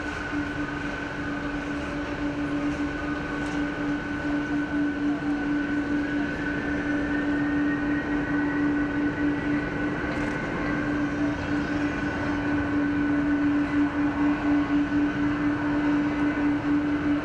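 Jet airliner engines running steadily at low power, giving a constant hum and a whine. A second, higher whine rises slightly in pitch about six seconds in.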